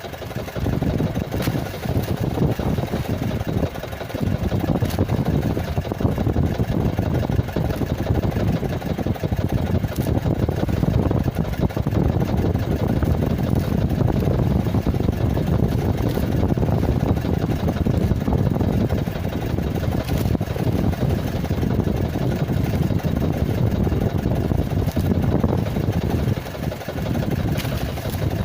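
Small boat engine idling steadily, a continuous low rumble.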